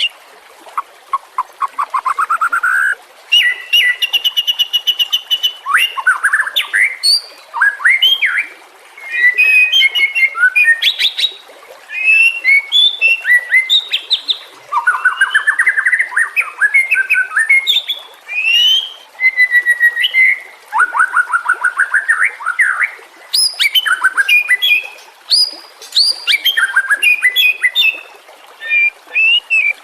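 White-rumped shama (murai batu) singing: loud, varied phrases of clear whistles, chirps and quick rising trills, one phrase after another with short pauses between them.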